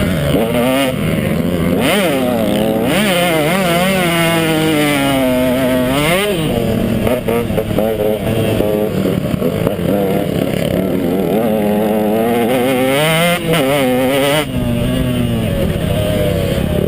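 KTM 150 XC two-stroke dirt bike engine revving up and down under hard riding, its pitch repeatedly rising and falling with brief drops as the throttle is chopped.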